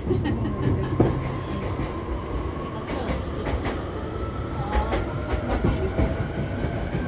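JR East E233-3000 series electric train running, with a steady rumble from the wheels and track, occasional clacks, and a thin motor whine that climbs slowly in pitch through the second half.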